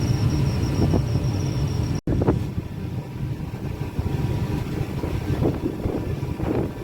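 Steady low drone of a passenger ship under way, its engines humming, with wind and sea noise. A hard cut about two seconds in leads to a rougher, noisier stretch.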